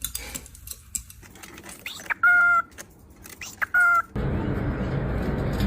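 A bird gives two short, loud, steady-pitched calls about a second and a half apart. Music comes in about four seconds in.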